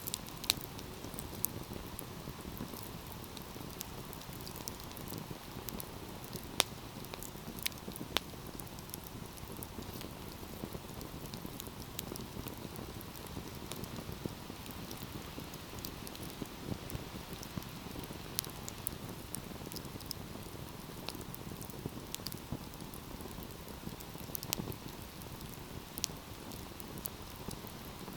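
Wood fire burning: a steady low rush of flame with scattered sharp crackles and pops, a few louder snaps standing out near the start and again around six to eight seconds in.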